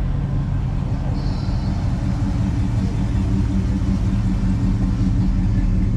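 Car engine running at a steady idle, a continuous low rumble.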